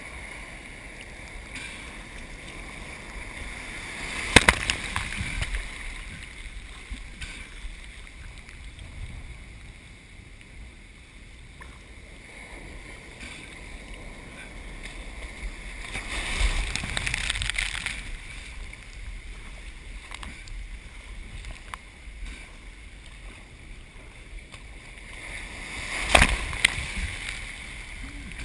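Ocean surf breaking on the shore as a steady wash, swelling louder three times as bigger waves break.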